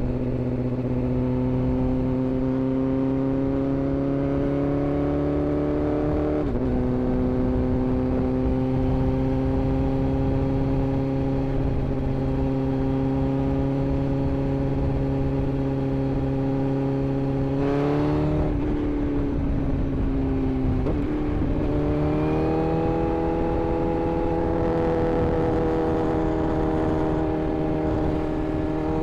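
Inline-four sport-bike engine running steadily at part throttle while riding in traffic, its note climbing slowly in each gear. The pitch drops at gear changes about six seconds in and again around eighteen and twenty-one seconds, and it climbs as the bike accelerates near the end.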